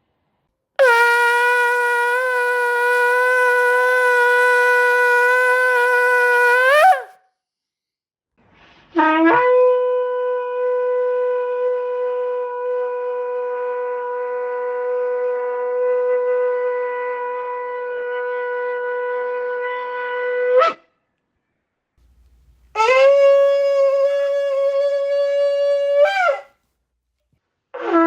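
Three long shofar blasts one after another, each a single held note that bends upward in pitch as it ends. The middle blast lasts about twelve seconds, and the last is a little higher and shorter.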